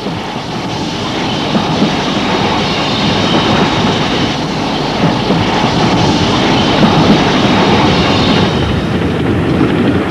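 Passenger train running past close by, its wheels clattering over the rail joints, growing louder over the first few seconds and turning duller near the end.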